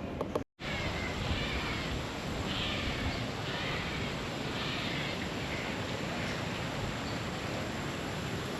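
Birds calling in short repeated cries over a steady background hiss, with a brief dropout to silence about half a second in.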